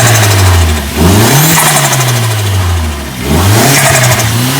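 Volkswagen MK4 Bora engine through its aftermarket exhaust, revved twice: each time the pitch climbs quickly, then drops away slowly as the revs fall.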